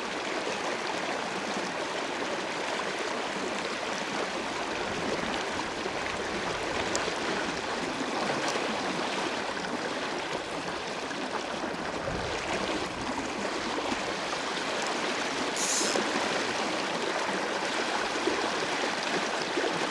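River water flowing steadily past in an even rush. About sixteen seconds in there is a brief high hiss, and near twelve seconds a low thud.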